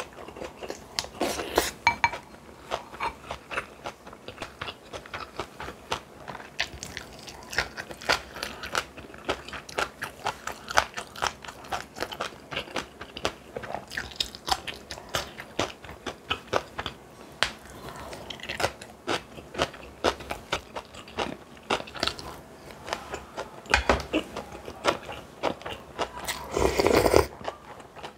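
Close-miked eating: a person chewing food with many quick crisp crunches and wet mouth clicks, and one longer, louder noisy sound about a second before the end.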